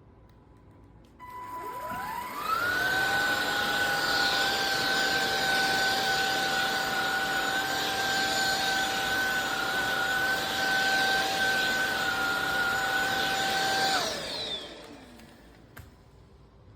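SunSare X7A cordless stick vacuum cleaner switched on: a short beep, then the motor spins up to a steady high whine with a rush of air. It runs for about eleven seconds, then is switched off and winds down, its pitch falling away.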